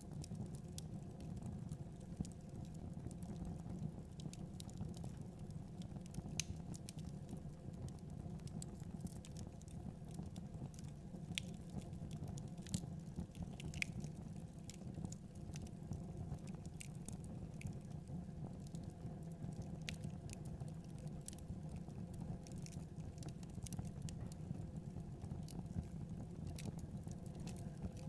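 Wood fire crackling in a fireplace: irregular small sharp pops and snaps over a steady low rumble of burning.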